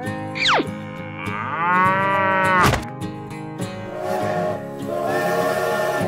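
A cow's moo, about a second in and lasting about a second and a half, over steady background music. A quick falling whistle comes just before it, and a knock right after it.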